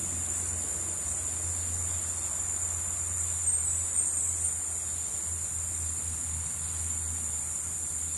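Rainforest insects, crickets or similar, trilling in one steady, unbroken high-pitched drone, with a few brief higher chirps about halfway through, over a steady low rumble.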